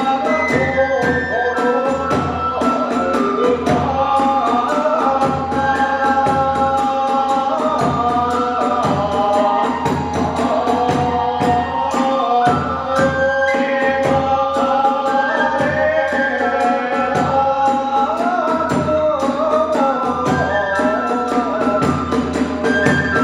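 Hiroshima kagura hayashi music: a bamboo flute plays a wavering melody over fast, steady drum beats and clashing small hand cymbals.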